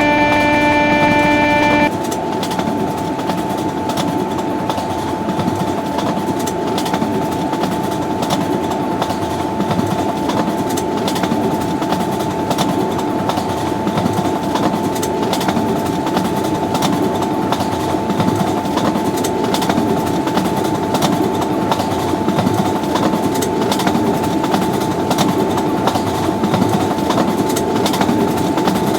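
A long train passing at high speed: a steady rushing noise with rapid, irregular clacks of wheels over the rail joints and a steady whine underneath. It opens with a loud steady multi-tone sound that stops about two seconds in.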